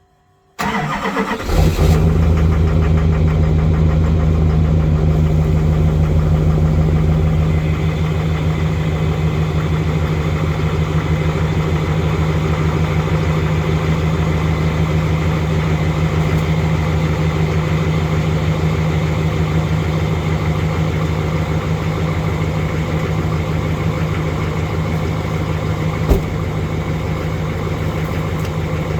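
2005 LLY Duramax 6.6-litre turbo-diesel V8 cold-starting unplugged after sitting in single-digit cold. It cranks for about a second, catches, and settles into a steady idle that is not too happy, with no elevated idle yet. A single sharp click near the end.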